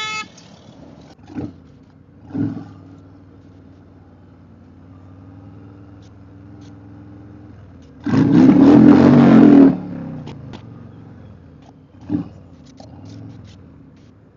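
Motorcycle engine running low and steady, with a few short throttle blips and one loud rev about eight seconds in lasting under two seconds, its pitch falling as it dies back.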